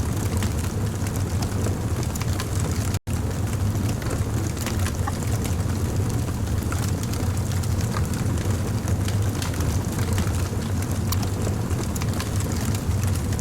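Wood fire crackling: scattered small pops and snaps over a steady low rumble of burning. The sound drops out for an instant about three seconds in.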